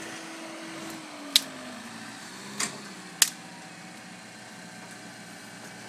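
Vehicle recovery winch running, its steady hum dropping in pitch about a second in as it takes up the load of the stuck motorhome, with three sharp clicks along the way.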